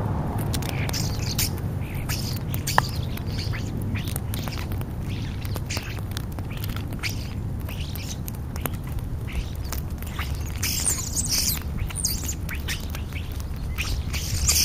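A flock of European starlings calling, with many short squawks, chirps and clicks that grow busiest about ten seconds in, over a steady low rumble.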